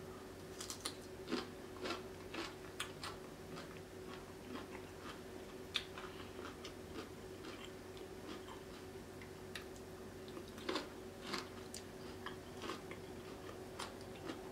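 Close-miked chewing of a mouthful of seafood: scattered soft wet clicks and smacks of the mouth, over a faint steady hum.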